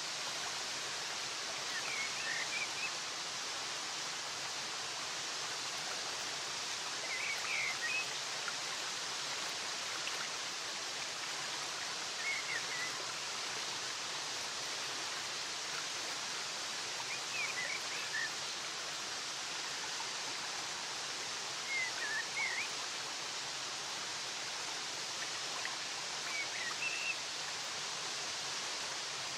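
Steady rushing of flowing water, with a small bird's short chirping phrases repeating about every five seconds over it.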